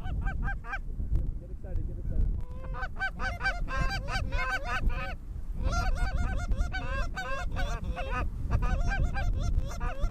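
Canada geese honking: many rapid, overlapping short honks in two long runs, with a brief lull about five seconds in. A low rumble, typical of wind on the microphone, sits underneath.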